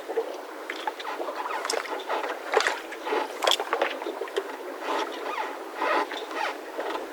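Yacht mooring ropes squeaking and creaking under strain as moored boats shift at their berths. The squeaks are short and irregular, and the two loudest come close together near the middle.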